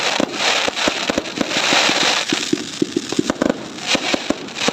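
Fireworks going off: a rapid string of sharp bangs and pops over a dense crackling hiss.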